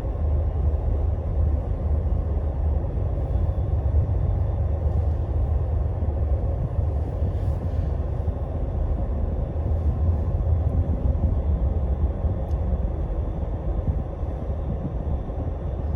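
Steady low rumble of a Scania Astromega double-decker highway bus under way, its diesel engine and road noise heard from inside the cabin.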